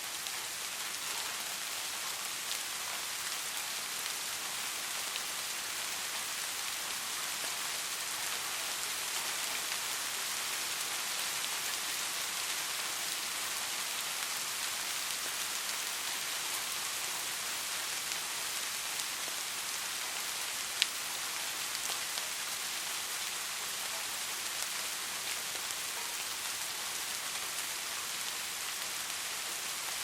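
Soft, steady rain: an even hiss of many small drops. One sharp click stands out about two-thirds of the way through.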